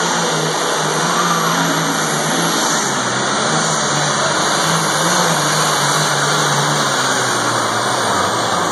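A tractor-pull vehicle's engine running loud and hard at high revs under load down the track, its pitch wavering and then falling away near the end.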